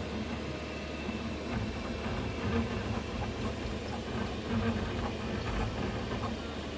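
Qidi Q2 3D printer running, with a steady hum and faint irregular clicks. The rattling comes from a loose print head.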